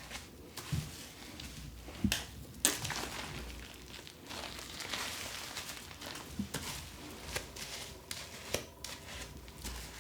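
Packaging crinkling and rustling as it is handled, with scattered sharp clicks and taps.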